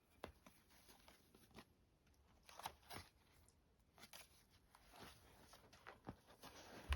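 Faint rustles and small clicks of paper and fabric as a handmade junk journal is handled, with a soft low thump near the end.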